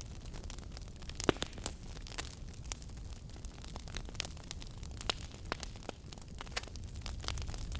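Fireplace fire crackling: irregular sharp pops and snaps over a low steady rumble, with one louder pop about a second in.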